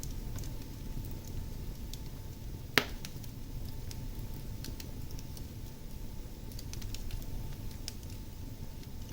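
Fire burning in a fireplace: a steady low rumble of flames with scattered light crackles and one sharp, loud pop nearly three seconds in.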